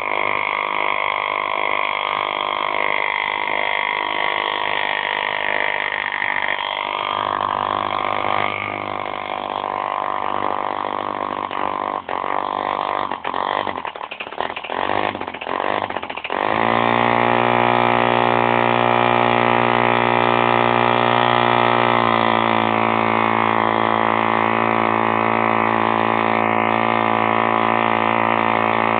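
B51 model diesel engine running, uneven and stuttering for a few seconds about halfway through. It then settles into a loud, steady, clean run, easing slightly lower in pitch about 22 s in.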